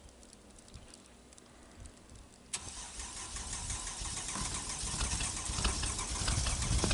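Cold start of a 3.0 Cummins common-rail turbo diesel in a Jeep. It is quiet for about two and a half seconds, then the engine catches suddenly and runs, getting steadily louder toward the end.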